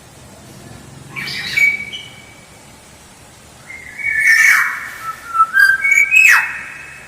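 Kepodang (black-naped oriole) calling: a short whistled call about a second in, then a longer phrase of clear whistles and rougher notes, the last sweeping sharply down in pitch.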